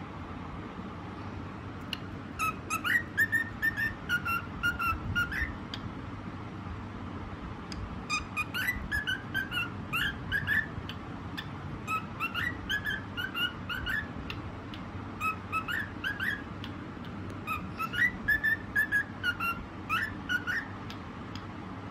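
Cockatiel whistling a song: short piping notes strung into a repeated tune, sung in phrases a few seconds long with pauses between.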